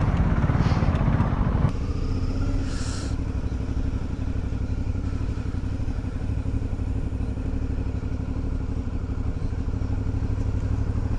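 Motorcycle engine running, louder and rougher for the first couple of seconds, then settling into a steady, even low drone.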